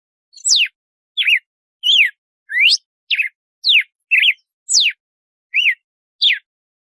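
Red-cowled cardinal (galo-de-campina) singing its 'açoite' song: about a dozen short, clear whistled notes with brief gaps between them, some sweeping down steeply and others rising, a few in quick pairs.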